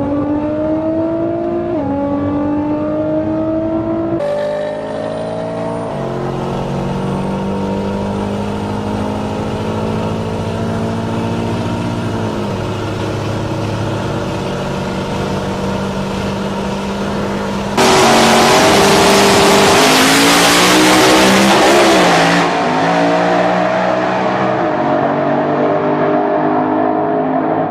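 Performance car engine accelerating hard, its pitch climbing and dropping back at three gear shifts, then held at high revs. A loud rushing noise joins for several seconds about two-thirds of the way through, after which the revs waver and fall.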